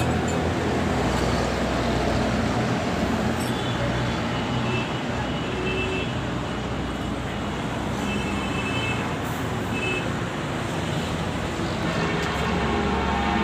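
Steady motor vehicle noise: engines running with road traffic, a constant low hum under a wash of noise. A pitched tone joins near the end.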